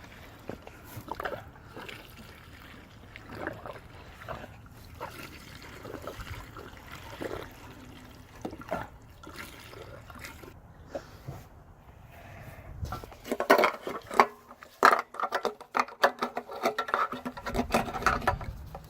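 Petrol being poured from a can into a mini bike's fuel tank, a soft trickle with small ticks. About thirteen seconds in comes a louder run of clicks and knocks from handling the can and tank.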